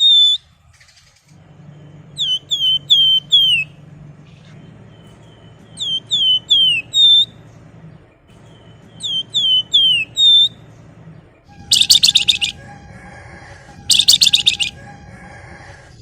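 Flamboyan songbird singing: three phrases of four or five quick downslurred whistled notes, then two rapid buzzy trills of about a second each near the end, the tight 'ngebren' trill that hobbyists prize. A faint low hum runs underneath.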